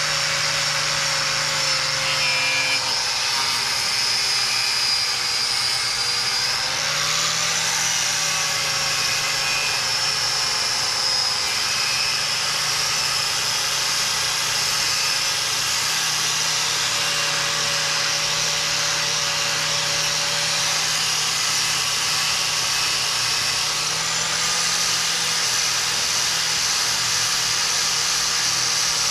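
Angle grinder with a stiff wire cup brush running continuously, scrubbing away a stubborn paint undercoat on metal. Its motor pitch shifts slightly a few times as the load changes.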